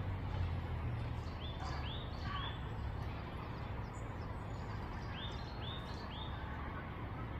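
Bird chirping in two quick runs of three short calls, over a steady low outdoor rumble.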